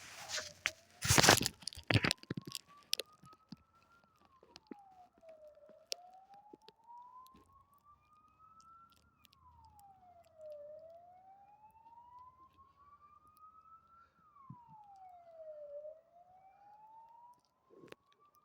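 A few loud knocks and clatters about a second in, then a faint siren wailing slowly: it rises over about three seconds, falls more quickly, and repeats about every five seconds.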